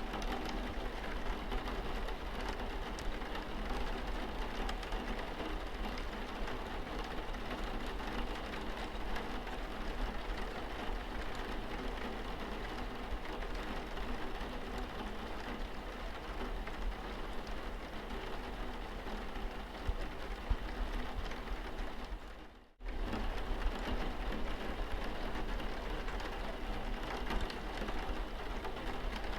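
Steady rain pattering on a car windscreen, an even wash of drops with a few louder hits. It cuts out for a split second about three-quarters of the way through, then carries on.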